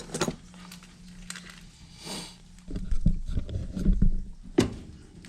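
Hands and tools working on parts inside a gas furnace cabinet: a few clicks, a brief rustle about two seconds in, then a cluster of heavy knocks and bumps, and a sharp click near the end.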